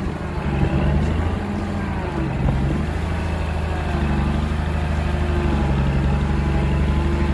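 Heavy diesel engine of earthmoving machinery running steadily; its pitch dips a couple of seconds in and climbs back up about four seconds in.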